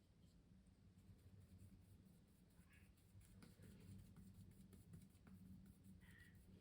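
Faint, scratchy strokes of a drawing or painting tool across canvas, with a steady low hum underneath.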